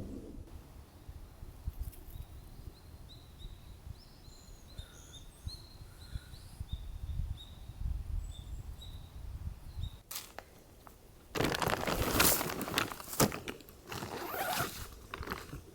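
Snow crunching in loud, irregular strokes starting about eleven seconds in. Before that there is a faint low rumble with a few faint, short, high chirps.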